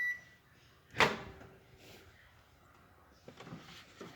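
The microwave's done-beep cutting off, then the microwave oven door popping open with one sharp clack about a second in, followed by a few light knocks.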